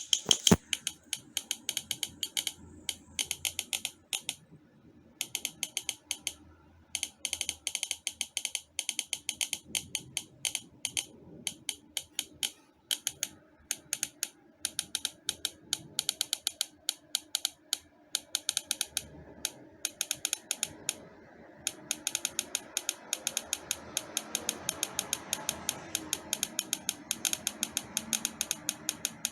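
Rapid runs of sharp, regular clicks, several a second, broken by short pauses, over a faint steady background.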